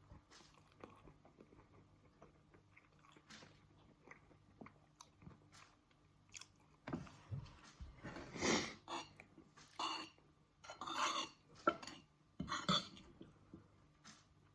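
Close-up chewing and mouth sounds of someone eating tofu and couscous, with faint clicks of utensils on the dish. About seven seconds in the chewing grows louder, in a handful of separate bursts.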